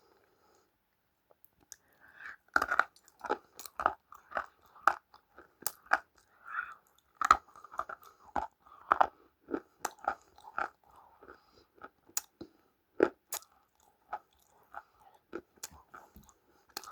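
A person biting and chewing crunchy food: after about two seconds of quiet, a rapid, irregular run of sharp crunches.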